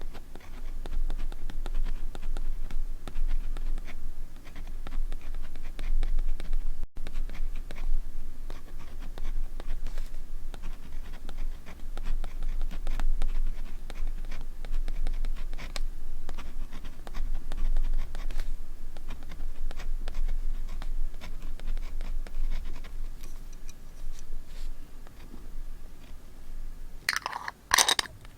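Close-miked scratching and rubbing on paper, a continuous run of fine strokes, with a short, louder rasp near the end.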